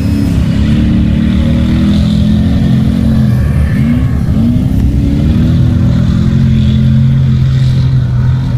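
Mud bog truck engine running loud, its pitch dropping and climbing a few times around the middle as the throttle is blipped, then held at a steady high pitch.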